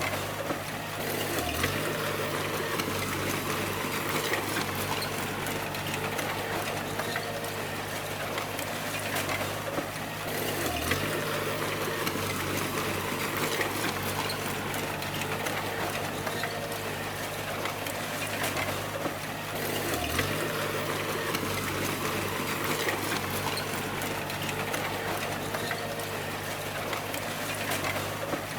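Bulldozer's diesel engine running steadily under a broad mechanical clatter, its low note dipping briefly about every nine to ten seconds.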